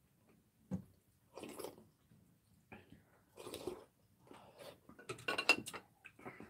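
Mouth sounds of eating chewy braised pig's trotters (jokbal): soft bites and chewing smacks about once a second, with a quick cluster of sharper clicks and smacks about five seconds in.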